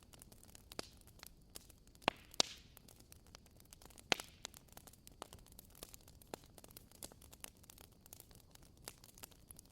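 Wood fire crackling: irregular small pops and snaps over a soft hiss, with a few sharper pops about two and four seconds in.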